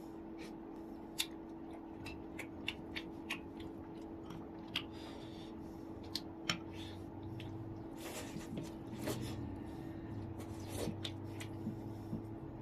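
A person eating steamed chicken by hand close to the microphone: scattered wet clicks and smacks of chewing and tearing meat, over a steady low hum.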